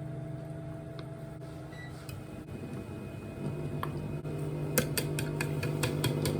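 Dishes and utensils clinking in a kitchen as food is handled, with a cluster of short sharp clicks in the last second or two, over a low steady hum.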